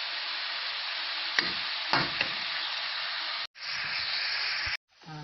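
Shredded tuna, tomato, onion and garlic sizzling in oil in a frying pan, with a spatula stirring and knocking against the pan a few times. The sound cuts out briefly twice in the second half.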